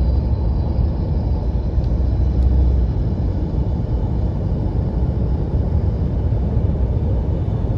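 Steady low-pitched vehicle rumble.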